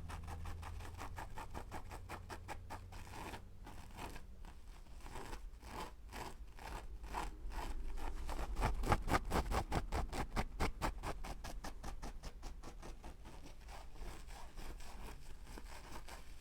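Close-miked ASMR trigger: rapid short scratching strokes, densest and loudest around the middle and thinning toward the end.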